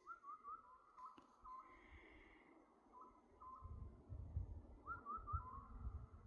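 Oriental scops owl calling, short whistled notes in pairs repeating every second or two, with a few quick rising whistles from another bird and a low rumble of wind in the second half.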